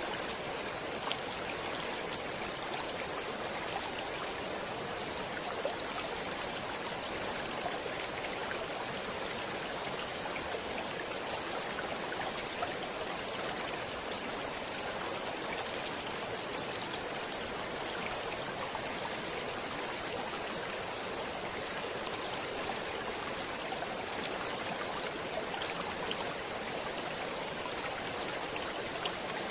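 Flowing stream water, an even steady rush with small splashes and drips scattered through it.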